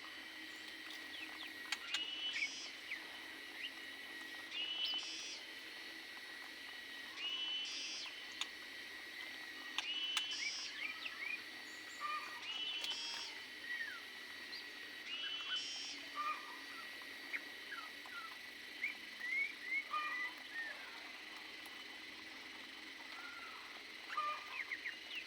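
Small birds calling and chirping: one call repeats about every two and a half seconds, with many short chirps in between, over a steady high-pitched tone.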